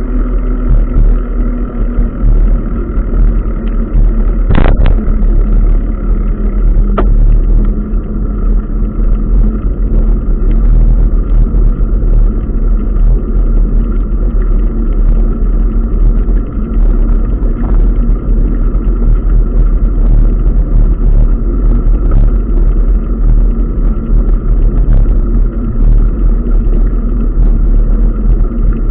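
Steady, loud rumble of wind and road noise on a camera carried on a moving bicycle, with a short sharp sound about four and a half seconds in.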